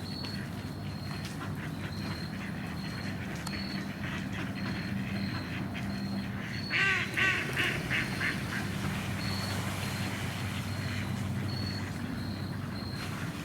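Ducks quacking, with a quick run of about six loud quacks about seven seconds in. A short, high-pitched chirp repeats every half second or so throughout.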